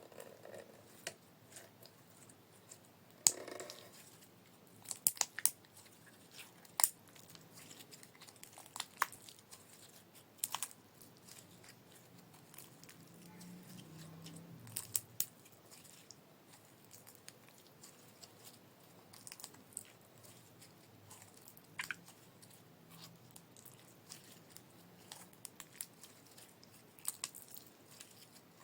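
Glitter slime worked by hand, giving scattered sticky pops and clicks with quieter crackling between them.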